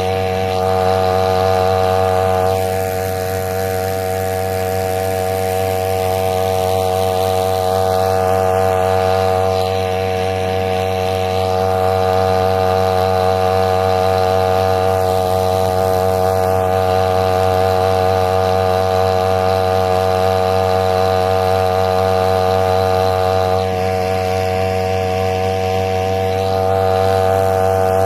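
Small petrol engine running at a steady, unchanging speed.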